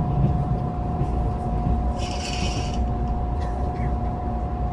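Train rumble heard from inside a passenger carriage: a steady low rumble under a constant hum, with a short high hiss about two seconds in.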